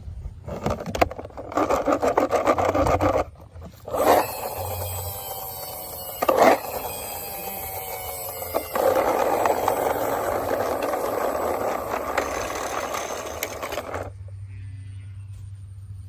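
Plastic toy cars handled and rolled across a hard surface: a few clicks, then long stretches of scraping and rubbing, with a faint falling whine from spinning wheels in the middle.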